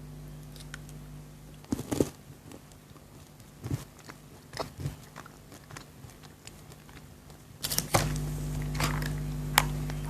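Close-up chocolate eating: a few sharp crunches as pieces are bitten, with chewing between them, against a faint steady hum.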